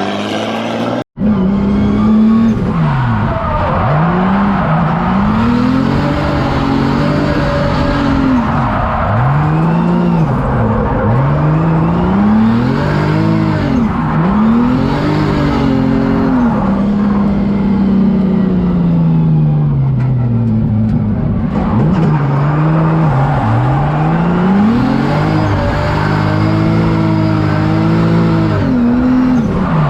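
Drift car engine revving hard, its pitch rising and falling over and over as the throttle is worked, with tires squealing through the slides. The sound cuts out for an instant about a second in.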